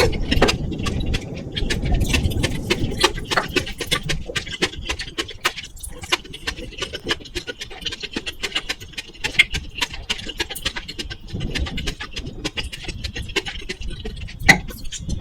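Close-miked eating sounds: chewing with many quick wet mouth clicks and smacks, over a low rumble and a faint steady high noise from a faulty microphone.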